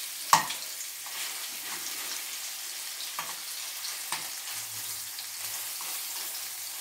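Beef burger patties sizzling in a hot frying pan: a steady high hiss. A sharp click comes shortly after the start, and a few lighter taps follow as a spoon presses the mince into a metal ring mould.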